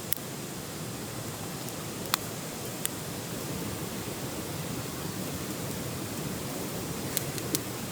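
Wood campfire burning with a steady hiss and a few sharp crackles, four pops in all, two of them close together near the end.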